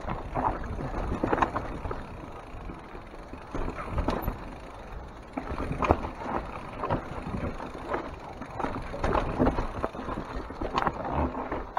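Mountain bike descending a steep, rocky trail: the tyres rolling over rock and the bike rattling, with irregular knocks as the wheels hit rocks.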